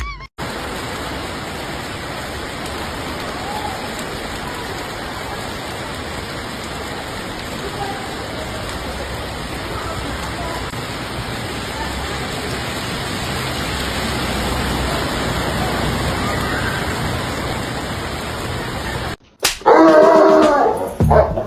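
A steady rushing noise without any tone, cutting off suddenly near the end, followed by a short, loud, pitched voice-like sound.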